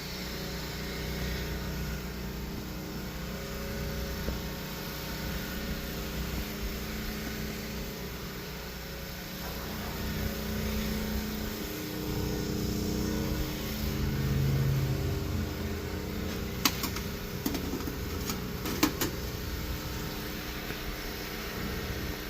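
A machine running steadily with a low hum, with a few sharp clicks or knocks a few seconds before the end.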